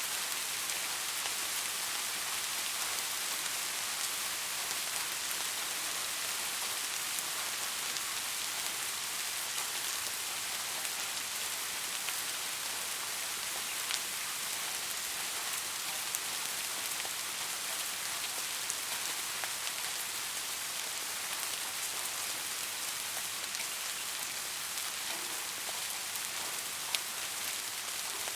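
Steady rain falling on a surface, a constant even hiss with fine ticking of individual drops and a few slightly louder drop hits.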